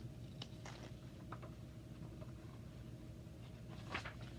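Quiet room tone: a steady low hum with a few faint short clicks, the last a little louder near the end.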